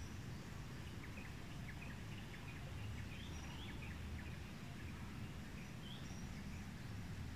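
Outdoor ambience: a steady low rumble with short, high bird chirps scattered over it, most of them in the first three seconds.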